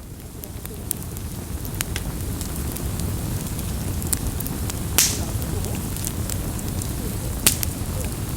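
Campfire burning: a steady low rumble of flames with burning wood crackling and popping, two sharp pops standing out about five seconds in and again about a second before the end. The fire sound fades in at the start.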